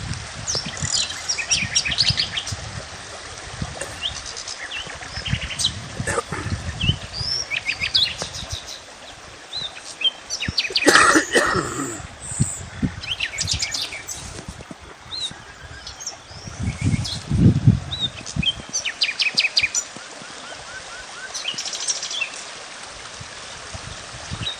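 Small birds chirping and calling, with quick trills and short rapid series of high chirps coming and going throughout. A louder, fuller sound stands out about eleven seconds in.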